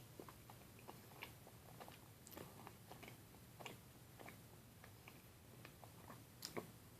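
Faint, irregular wet smacks and clicks of a person chewing a peanut butter and jelly sandwich, with a louder pair of smacks near the end.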